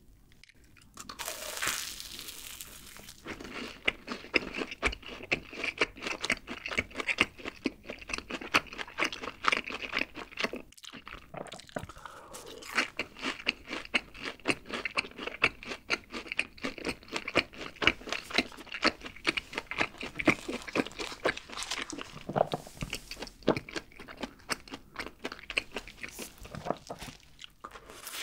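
Close-miked chewing of a fried cheese ball, its crisp seasoned crust crunching in dense, rapid crackles, with a brief pause about eleven seconds in.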